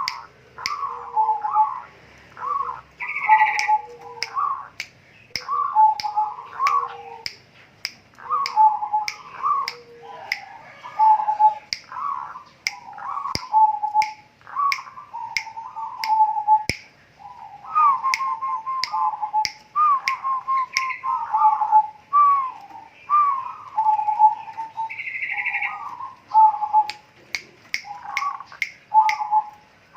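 A bird calling over and over in short phrases of gliding, chattering notes, the repetitive 'kowar kowar' call. A sharp tick repeats about twice a second throughout.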